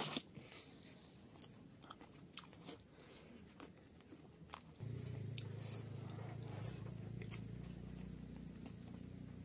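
Close-up mouth sounds of a person biting and chewing chicken curry and rice eaten by hand, with many short crisp crunches and clicks, the sharpest right at the start. About halfway through, a steady low hum comes in underneath.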